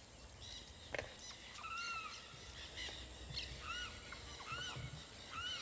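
Birds calling: a short rising-and-falling chirp repeated every half second or so, over other faint bird calls, with one sharp click about a second in.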